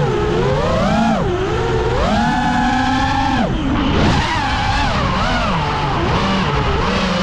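A 5-inch freestyle FPV quadcopter's brushless motors whining, the pitch swinging up and down as the throttle changes. It climbs and holds high for about a second and a half, then drops sharply, and wavers after that.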